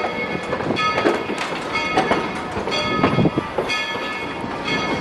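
Locomotive bell ringing steadily, about two strokes a second, as the train rolls slowly in, with knocks and clanks from the cars.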